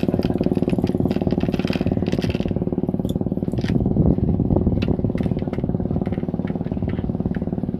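A small engine running steadily at an even speed, with a few light clicks over it.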